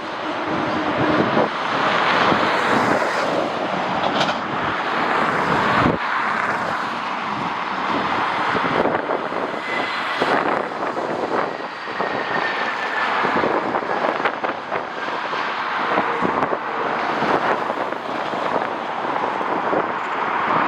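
Jet airliner engines passing, under gusty wind buffeting the microphone; a faint engine whine slowly falls in pitch through the middle.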